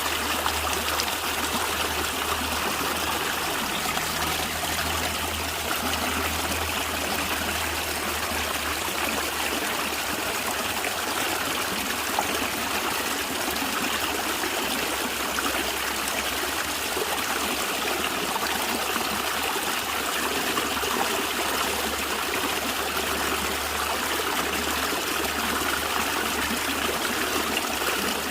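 A natural stream of water flowing and gurgling steadily.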